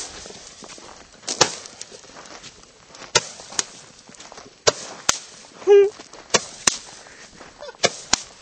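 Fireworks going off in a rapid, irregular string of sharp bangs and pops, about nine in all, several trailing a short hiss. A brief loud shout cuts in near the middle.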